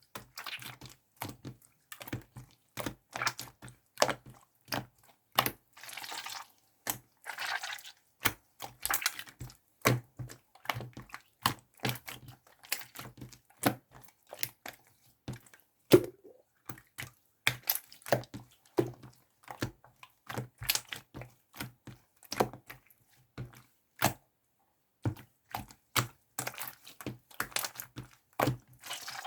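Rapid, irregular clicks and taps, much like typing, with two short rustling noises about six and seven and a half seconds in and one louder tap near the middle.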